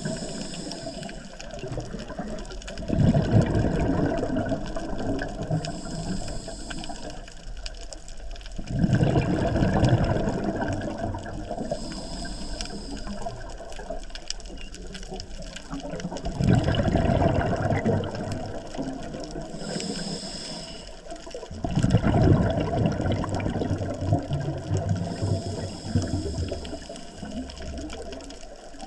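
Scuba diver breathing through a regulator underwater. Each breath is a brief high hiss as the diver inhales, then a longer rumbling gush of exhaled bubbles. The cycle repeats about every six seconds, with four exhalations.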